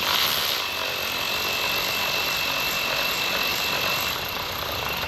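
Power tool running steadily with a constant high whine, then stopping.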